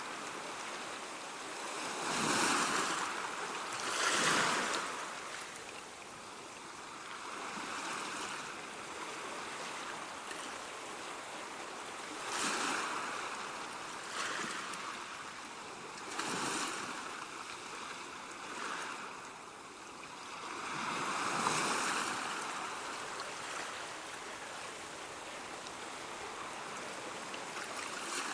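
Ocean surf: a steady wash of waves with louder surges as waves break, irregularly every few seconds.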